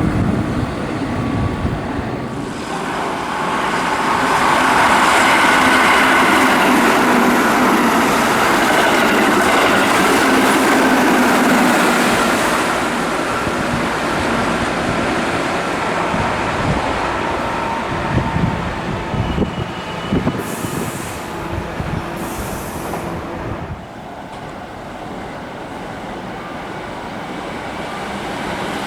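Keihan Main Line electric train passing at speed. The running noise builds over the first few seconds and holds loud for about ten seconds, followed by a run of low thumps before it drops away about 24 seconds in.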